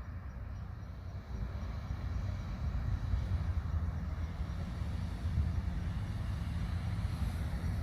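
A steady low rumble, mostly deep bass with a faint hiss above it and no distinct events.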